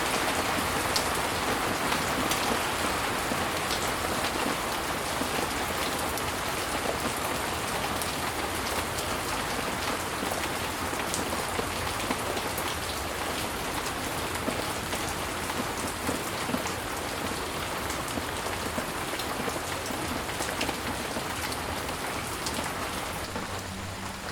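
Steady heavy rain falling, a dense hiss with many individual drops tapping close by. It eases slightly near the end.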